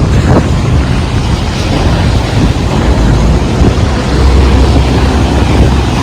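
Strong wind buffeting the microphone over heavy rain: a loud low rumble that swells about four seconds in, over a steady hiss of rain.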